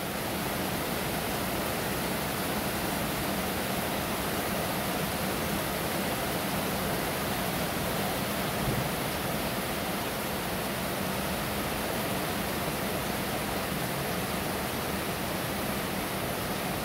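Heavy downpour of rain, a steady, even hiss of rain falling on lawns, pavement and roofs. A single soft bump sounds about nine seconds in.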